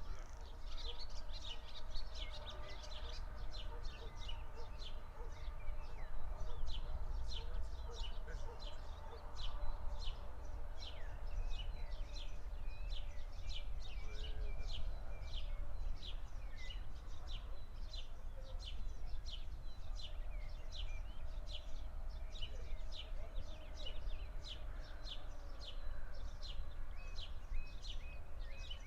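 A bird repeating a short, high chirp over and over at about two to three a second, steady throughout, over a constant low outdoor rumble.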